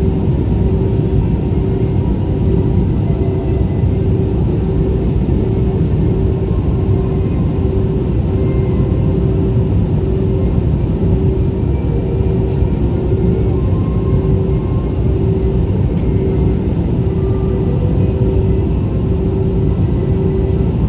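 Airliner cabin noise during descent: a loud, steady rumble of engines and airflow with a steady hum on top.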